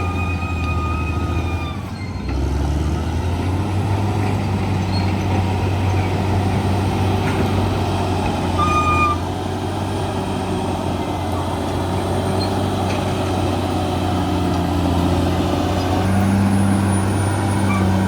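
Bulldozer's diesel engine running steadily under load. It dips briefly about two seconds in and works harder near the end. A steady high tone sounds over it for the first two seconds and again briefly about nine seconds in.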